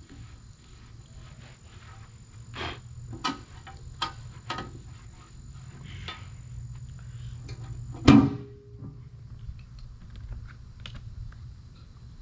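Small metal parts being handled and cleaned: scattered clicks and scrapes, then a loud metallic clunk about eight seconds in that rings briefly. A steady high thin tone runs underneath and stops at the clunk.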